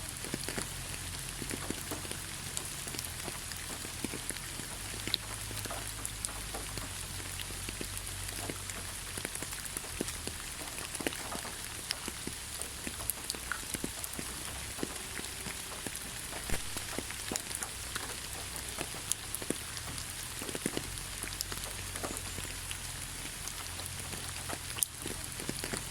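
Rain falling on leaves: a steady hiss with many separate drops pattering irregularly on top.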